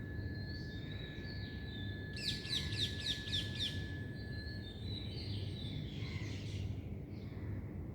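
Birds calling outdoors: a quick run of about seven sharp, falling chirps about two seconds in, with fainter calls around it, over a steady low background rumble.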